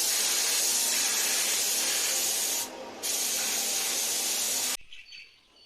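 Pressurised spray hissing in two long bursts, with a short break about two and a half seconds in, then cutting off sharply near the end.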